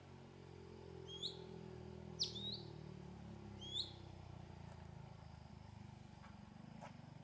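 A bird gives three short, sharp rising chirps in the first four seconds, over a faint steady low hum.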